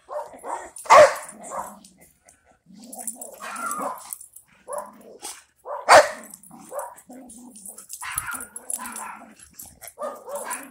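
Boxer dogs barking and growling as they play-fight over a toy, with two loud barks, one about a second in and one about six seconds in.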